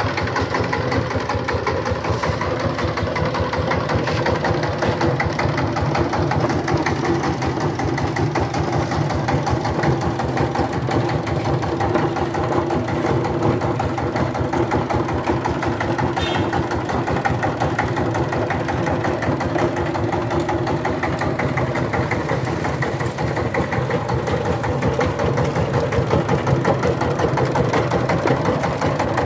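Power tiller's diesel engine running steadily, with a dense, even diesel knock.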